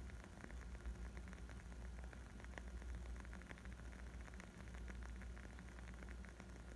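Wood fire crackling: a dense, steady stream of small pops and snaps over a low rumble.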